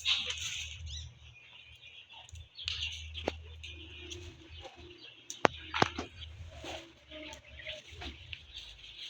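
Birds chirping, with a low steady hum and a few sharp knocks, the loudest about halfway through.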